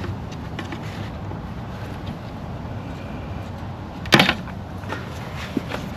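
Plastic engine-bay parts being pried and pulled loose by hand, with a few light clicks and one sharp snap about four seconds in, over steady shop background noise.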